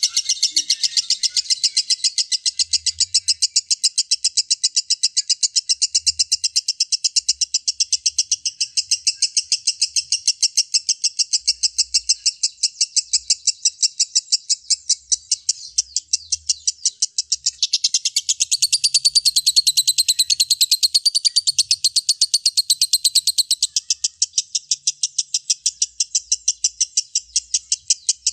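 Lovebird in a long, unbroken 'ngekek' song: rapid high-pitched chirps repeated about five times a second without a pause. From about two-thirds of the way in, for some six seconds, a fuller, higher warbling rides over the chirping.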